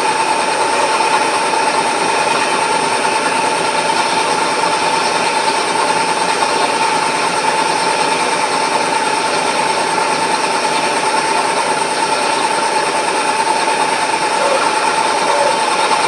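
A workshop machine tool running steadily under power, with a constant whine over a dense mechanical rush.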